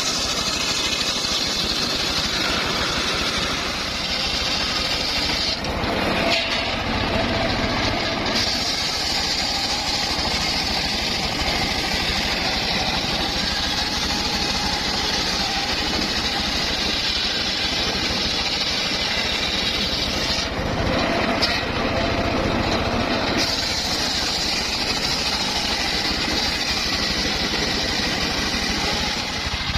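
Circular sawmill running and cutting wood: a steady mechanical drone under a higher cutting noise. The higher noise drops away twice, for two or three seconds each time, about six seconds in and about twenty-one seconds in.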